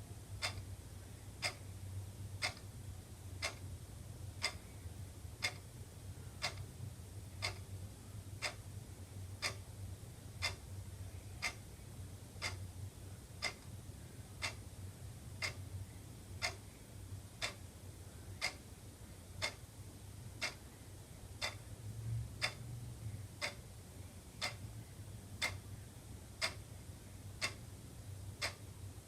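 Wall clock ticking steadily, one sharp tick a second, over a faint low hum.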